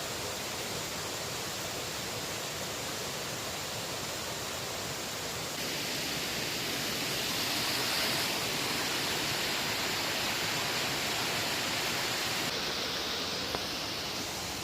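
Waterfall swollen with recent rain, rushing with a steady, even hiss that grows louder and brighter about halfway through.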